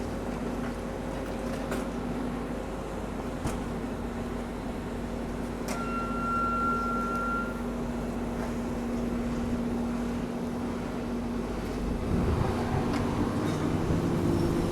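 Excavator's diesel engine running steadily while it drags a fire-wrecked ute out, with a single high-pitched squeal lasting about a second and a half about six seconds in. The engine note rises and gets louder near the end as it works harder.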